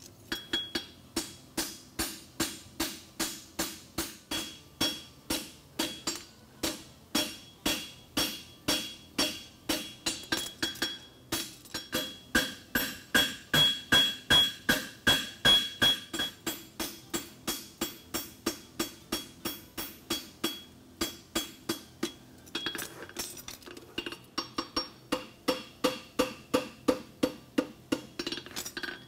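Hand hammer striking hot steel bar stock on an anvil, forging out a horseshoe branch: steady ringing blows about two to three a second, pausing briefly twice, with the heaviest blows in the middle.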